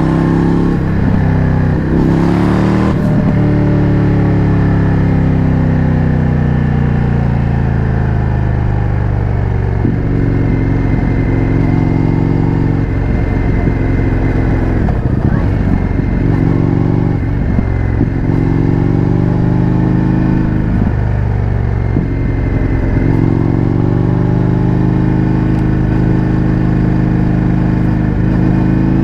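Indian FTR 1200's V-twin running through an Akrapovič exhaust, heard from on the moving bike. Its pitch falls slowly as the throttle is rolled off, wanders through the middle, and climbs again over the last several seconds as it accelerates. There is a short break about two to three seconds in.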